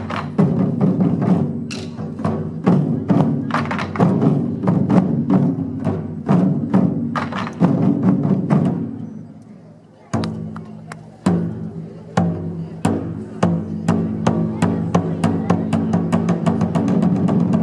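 Japanese taiko drums played in fast, dense strikes, with sharp clicks of sticks among the drum hits. The drumming dies down about nine seconds in, then starts up again a second later and keeps going.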